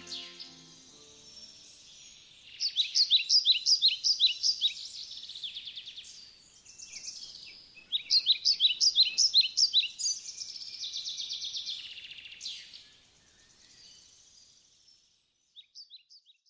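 A songbird singing in woodland: two loud phrases of rapid, high, repeated notes, then a softer trill that fades away, with a few faint chirps near the end.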